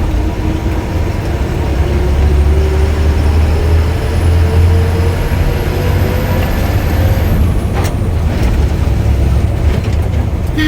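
Ashok Leyland bus running under way, a deep steady rumble with a tone that rises slowly for about seven seconds as it picks up speed. A single sharp click comes near eight seconds in.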